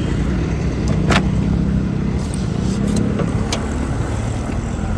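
Road traffic: motor vehicles running past in a steady low rumble, with a couple of sharp clicks.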